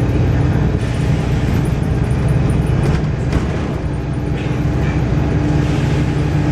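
Volvo B7RLE bus engine running steadily with a low drone. A few short hisses, typical of the bus's air system, come over it.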